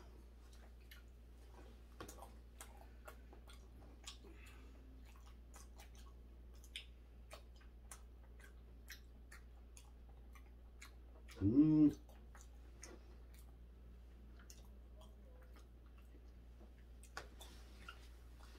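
A person quietly chewing raw cutlassfish sashimi, with scattered small clicks of the mouth and of chopsticks against bowls. There is a short hum of the voice about two-thirds of the way through.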